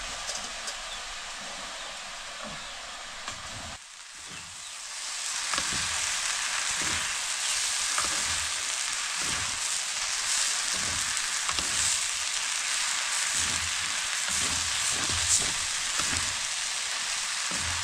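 Food frying in a hot pan: a steady sizzle that grows louder about five seconds in, with soft stirring strokes repeating about twice a second.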